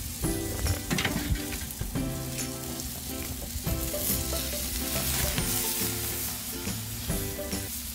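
Steak sizzling on a hot grill grate, a steady hiss, with sharp clicks as metal tongs turn it and lift it off.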